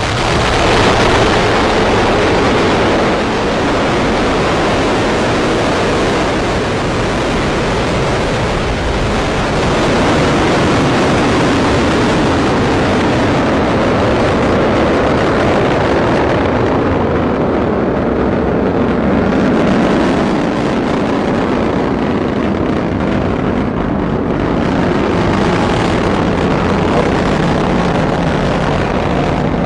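Atlas V rocket's RD-180 first-stage engine firing at full thrust just after liftoff: a loud, steady noise that goes on without a break.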